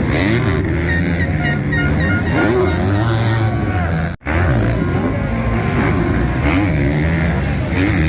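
Motocross bikes running on the track, engines revving up and down, with a brief cut about four seconds in.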